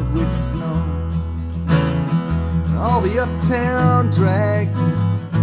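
Americana trio playing live: strummed acoustic guitar over steady bass notes, with a gliding melody line on top.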